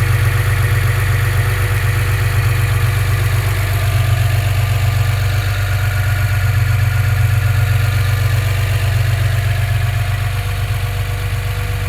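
Chevrolet Opala 4.1-litre gasoline straight-six with a 6-into-2 exhaust header, idling steadily on its first start of the day. The idle is even and smooth, the sign of a well-tuned engine.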